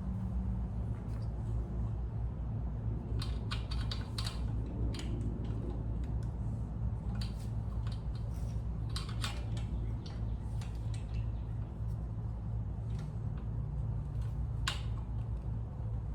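Scattered light clicks and taps of small parts being handled and fitted as a new carburetor, fuel filter and gaskets go onto a small engine, in clusters with pauses between. A steady low hum runs underneath.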